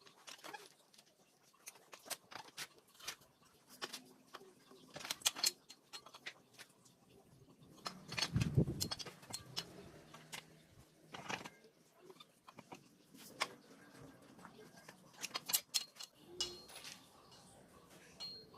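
Scattered clicks, clinks and knocks of hand tools and metal parts being worked on during an exhaust header pipe change on a Honda Vario scooter, with a louder low thud about eight and a half seconds in.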